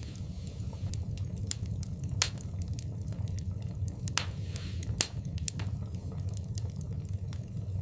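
Wood fire in a fireplace crackling, with irregular sharp pops over a steady low rumble of the flames; two louder pops come about two and five seconds in.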